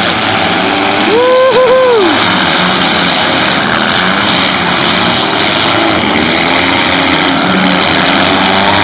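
Demolition derby cars' engines running and revving together in a loud, steady din. About a second in, a brief pitched tone rises, holds and falls away.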